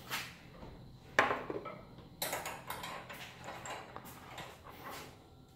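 A handful of short, light metallic clinks and knocks, spaced irregularly: metal tools being handled.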